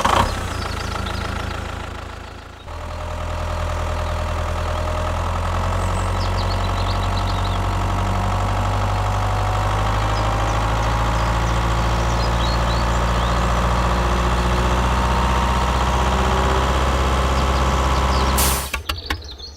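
An engine idling steadily. It starts up about three seconds in and cuts off shortly before the end.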